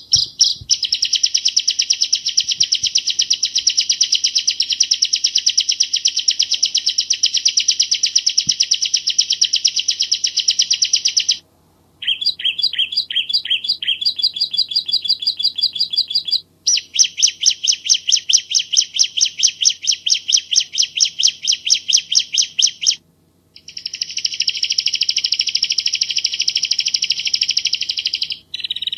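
Bar-winged prinia (ciblek jawa) singing long, fast trills of rapidly repeated high notes, in bouts several seconds long broken by brief pauses.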